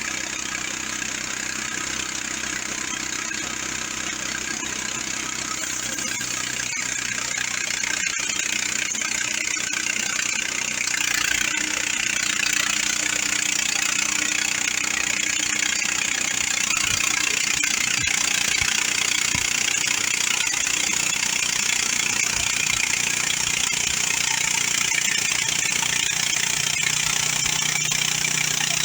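Mechmaxx 26-inch bandsaw mill running on its 420cc single-cylinder gasoline engine, a steady engine hum under a high hiss that grows louder over the first dozen seconds.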